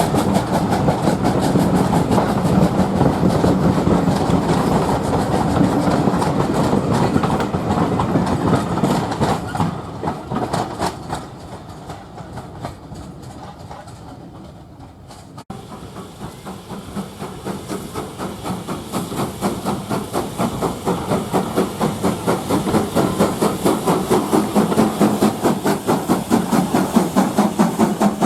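Train running on the line with a fast rhythmic beat, fading away over several seconds. After an abrupt break about halfway through, the rhythmic train sound builds up again and grows louder towards the end.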